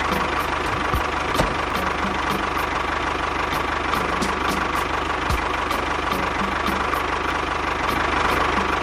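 A small engine running steadily at idle, with a regular ticking beat over the running.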